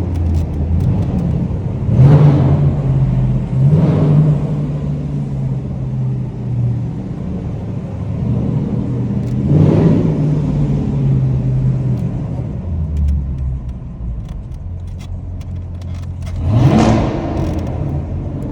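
Car engines running at a low idle, with the revs blipped four times: about two and four seconds in, near the middle, and near the end, where the pitch rises sharply.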